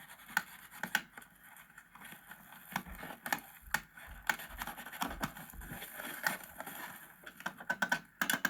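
Irregular clicks, light knocks and scraping of objects handled by hand, with a few low thuds in the middle and a quick cluster of clicks near the end.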